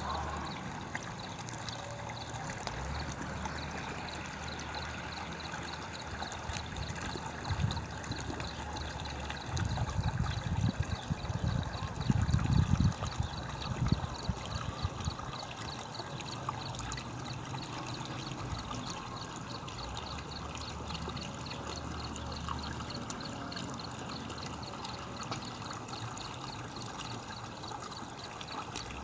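Rainwater running and trickling steadily, with a stretch of loud low rumbling bursts about a third of the way in.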